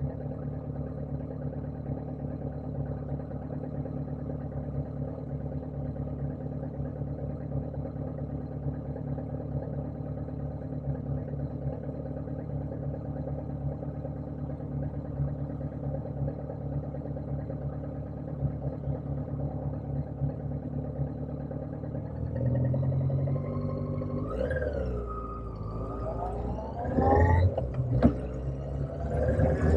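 Motorcycle engine running steadily at one pitch for about twenty seconds, then its revs climb and drop several times, louder, as the bike accelerates.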